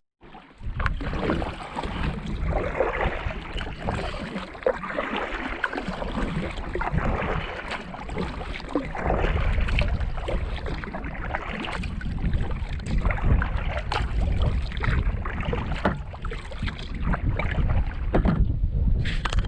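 Water sloshing and splashing around a small canoe-style pack boat under paddle, with irregular short splashes and wind rumbling on the microphone.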